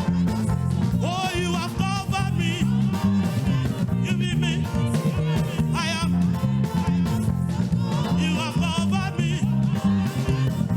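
Live praise-and-worship band playing an upbeat groove: a steady, repeating bass line under guitar, with a lead melody that wavers in pitch.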